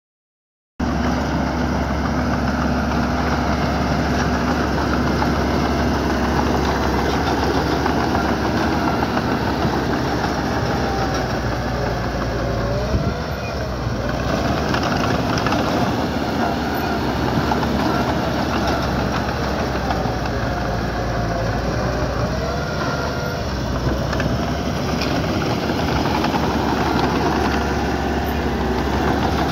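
Diesel engine of heavy earthmoving equipment running steadily, cutting in abruptly about a second in; its note wavers up and down a couple of times midway.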